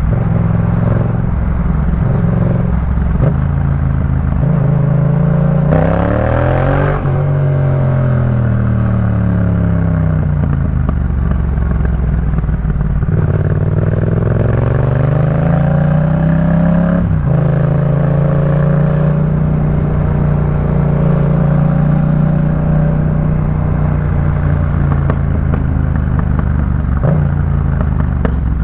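2018 Yamaha MT-07's parallel-twin engine through a Jeskap K4 full exhaust system, under way. The revs climb sharply about six seconds in, fall away, and climb again, breaking off suddenly just past the middle before holding a steady pitch.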